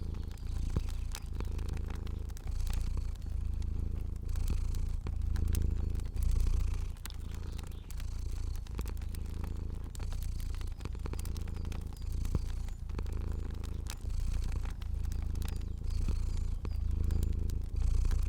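A cat purring, close up, in a low rumble that swells and fades with each breath about once a second, over fire crackling in small sharp clicks.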